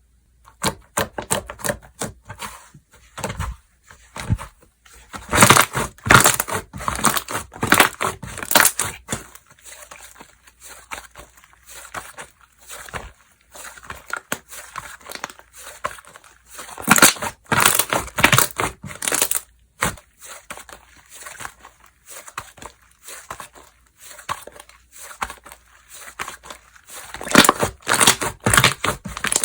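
Hands squishing, stretching and folding slime, giving rapid sticky clicks and crackling air-bubble pops. Three louder spells of crackling come about a quarter of the way in, past the middle and near the end.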